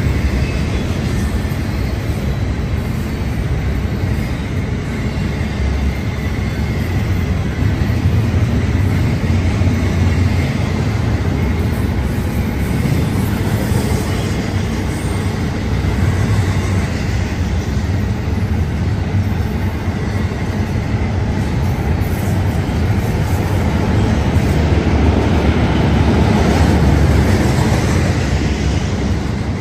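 Union Pacific double-stack intermodal freight train rolling past: a steady, loud rumble of steel wheels on the rails as the container-laden well cars go by, heard in a concrete-walled trench.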